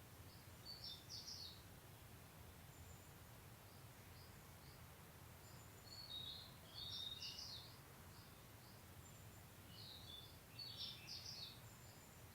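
A small songbird sings three short, high chirping phrases a few seconds apart, with a few single chirps between. A faint, steady low rumble runs underneath.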